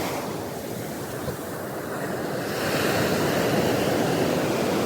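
Sea surf on a beach: waves breaking and washing up the shore, the wash swelling louder about halfway through.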